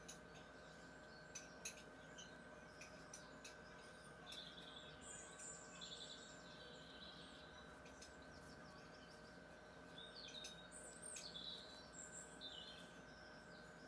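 Faint birdsong: several birds chirping and warbling in short phrases, busiest about four to seven seconds in and again about ten to twelve seconds in, with a few soft scattered clicks.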